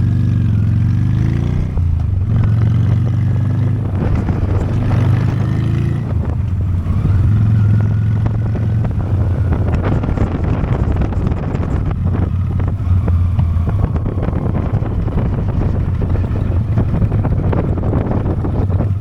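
Honda Steed V-twin motorcycle engine running steadily while riding, mixed with wind and road noise.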